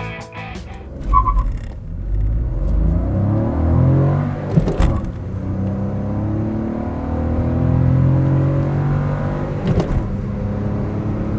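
Suzuki Baleno's 1.0 BoosterJet turbocharged three-cylinder engine accelerating hard from a standstill, revs climbing through the gears with two manual upshifts, about 4.5 and 10 seconds in. A short electronic beep sounds about a second in, just before the pull begins.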